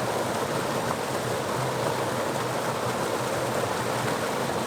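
Steady, unbroken rush of running water, as from a mountain stream.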